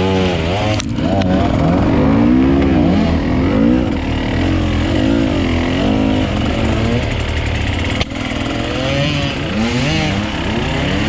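Off-road enduro motorcycle engines revving up and down over and over, the throttle blipped and rolled on and off about once a second as the bikes pick their way over rough ground, over a steady low engine drone.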